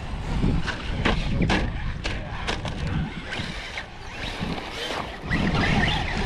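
Electric RC trucks running over dirt and gravel: a motor whine with a low rumble under it and several sharp clicks and knocks from stones and impacts, the whine rising near the end.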